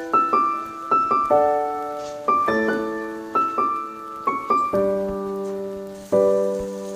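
Background piano music: a slow melody of single notes and chords, each struck note fading away before the next.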